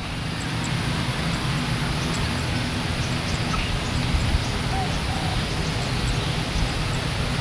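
Steady low engine rumble and hiss heard from a distance, with faint high chirps.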